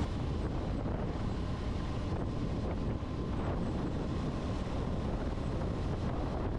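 Steady wind rush on the microphone of a motorcycle under way, with the motorcycle's running sound blended into it.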